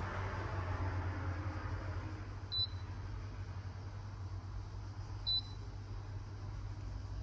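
Klarstein coffee machine humming steadily, with two short high electronic beeps about two and a half seconds apart.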